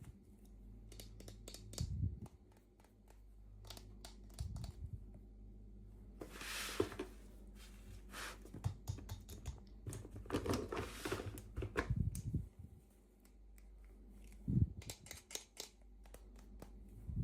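Toy packaging being handled and opened by hand: scattered small clicks and taps, with two longer stretches of crinkling, one about six seconds in and one about ten seconds in.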